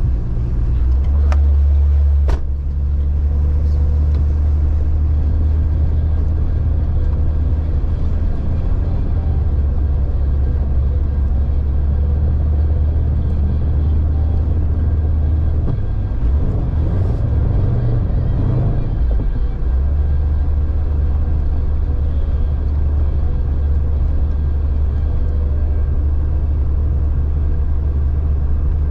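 Jeep Cherokee XJ driving off-road with its engine running as a steady low drone. There are a couple of sharp knocks about two seconds in. The drone turns rough and uneven for a few seconds about two-thirds of the way through.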